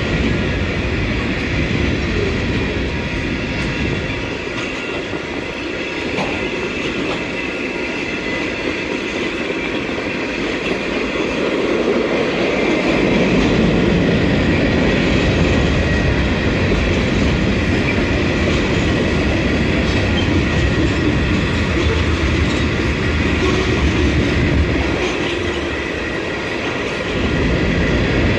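Canadian Pacific freight train rolling past at close range, its wheels clattering over the rails in a continuous steady rumble that eases a little in the lows about four seconds in and builds again partway through.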